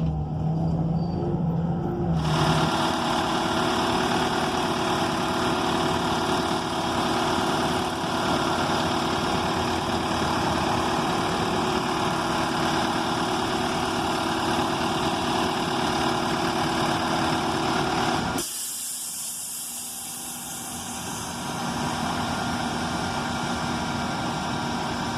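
Transit bus running, its Cummins Westport ISL G natural-gas engine heard from inside as a steady drone with a whine. The sound jumps up abruptly about two seconds in. Near the end the low rumble drops away under a brief hiss, then a quieter steady running sound follows.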